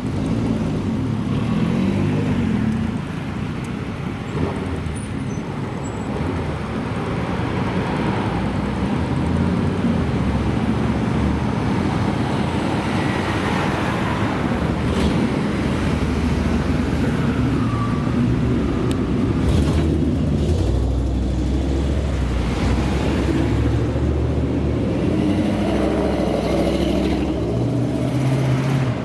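Classic car engines running and driving past, their low rumble rising and falling as they go by.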